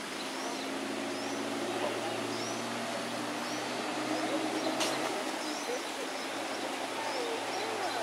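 Small birds chirping over steady outdoor background noise, with short high calls repeating every second or so and some lower sliding calls. A low steady hum runs until about five seconds in, and a single sharp click sounds just before it stops.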